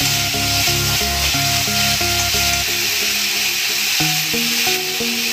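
Grated onion and ginger-garlic paste frying and sizzling in oil in a kadai, stirred with a metal spatula. Background music of short stepped notes with a bass line plays over it.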